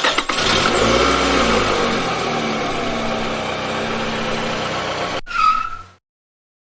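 Car engine sound effect: the engine revs up and then runs steadily for about five seconds. Near the end comes a short higher-pitched sound, and then it cuts off suddenly.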